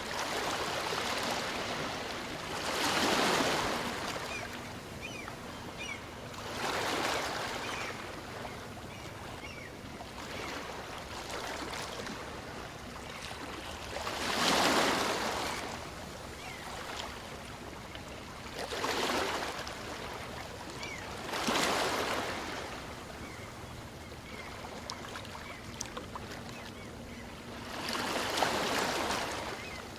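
Small waves on a calm sea breaking and washing up the beach, six louder surges at uneven gaps of a few seconds, with a steady wash of surf between them.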